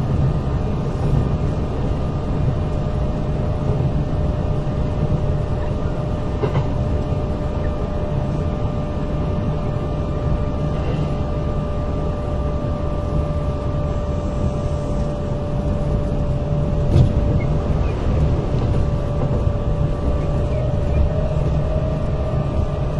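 Interior running sound of a Kintetsu 8000 series electric train car cruising at a steady speed. A low rumble of wheels on rail carries a steady, unchanging whine, with a single sharp click about two-thirds of the way through.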